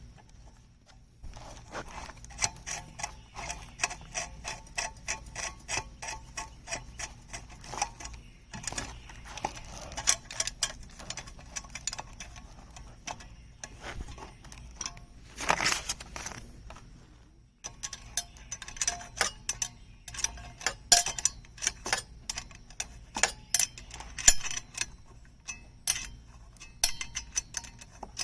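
Ratchet wrench clicking in quick, even runs as bolts on the chainsaw mill are tightened, with short pauses between runs and a brief louder scrape about halfway through.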